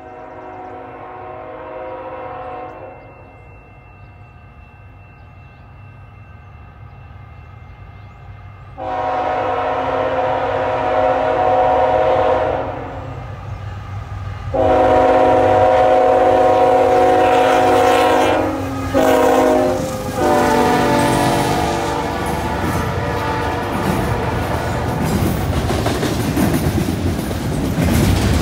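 Canadian National freight train's locomotive air horn blowing as it approaches, faint at first, then loud in the grade-crossing pattern: two long blasts, a short one and a long one. The locomotives then pass close by, and double-stack container cars roll past with wheels clacking over the rail joints and the junction switch.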